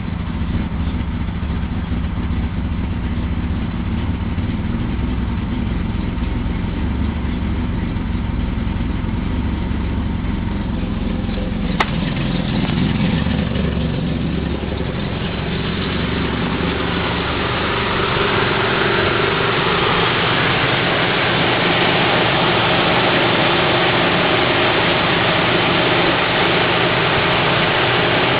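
Subaru XT6's 2.7-litre flat-six engine idling steadily during its cold-start warm-up. About twelve seconds in there is a sharp click, after which the running sound turns noisier and a little louder.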